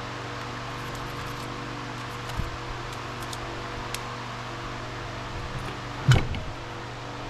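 Steady mechanical hum, like a fan or motor running, with a sharp knock about six seconds in and a fainter one around two and a half seconds.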